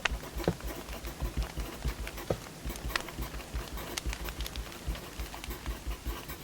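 Wood fire crackling, with irregular sharp pops and snaps over a soft low rumble.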